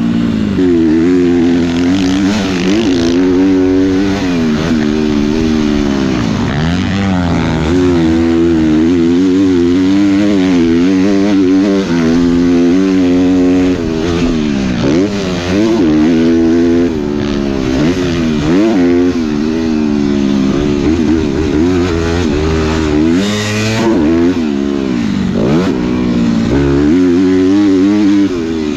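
Motocross dirt bike engine being ridden hard, its pitch rising and falling over and over as the throttle is opened and shut.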